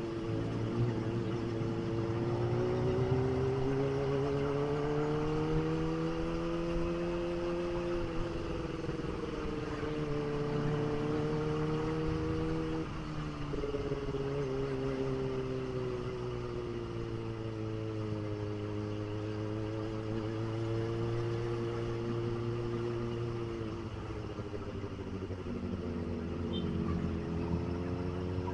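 Kawasaki ZX-25R's 250 cc inline-four engine running while riding, the revs climbing and easing slowly, with brief dips in pitch about eight and thirteen seconds in.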